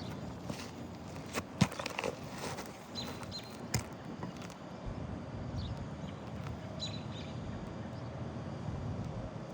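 Hand work on roof shingles: a few sharp knocks and scraping clicks, the loudest about a second and a half in and another near four seconds, over a steady outdoor background with a few short high chirps.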